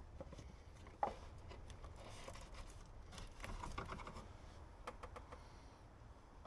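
Light, irregular clicks and taps of tools and parts being handled while the oil filter housing's hexagon cap is worked loose, with one sharper click about a second in.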